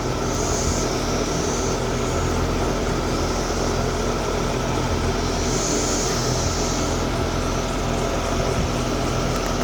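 Steady mechanical hum and background noise, like an outdoor air-conditioning unit or distant traffic. A high hiss rises over it twice, each time for about a second and a half.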